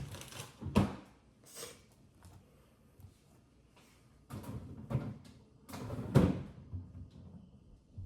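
Plastic refrigerator drawers and contents being handled while restocking: a sharp knock about a second in, rattling and sliding around four to five seconds, and a louder knock just after six seconds.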